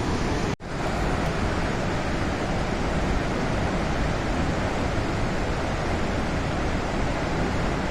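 Steady rush of falling water from Unchalli Falls, a large waterfall on the Aghanashini River, broken for an instant about half a second in.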